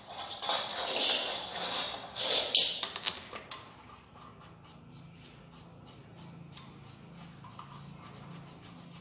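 Metal rubbing and scraping as the cylinder head and its bolts are handled onto a single-cylinder diesel engine block, with a sharp clink about two and a half seconds in. After that come faint, irregular light clicks.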